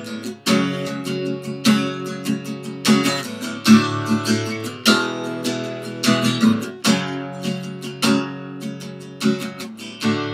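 Acoustic guitar strummed in a quick down-up pattern through the F sharp minor, D and E major chord progression, with a sharp attack on each strum and the chords ringing between.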